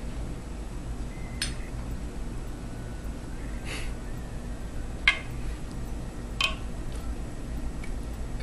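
Metal serving utensils clinking against a stainless pressure cooker's inner pot and a china plate while turkey pieces are served out: a few sharp clinks a second or two apart, the loudest about five seconds in, over a steady low hum.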